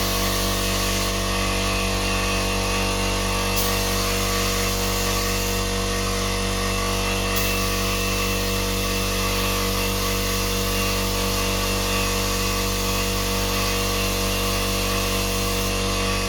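Handheld heat gun running steadily: a constant motor-and-fan whine over rushing air.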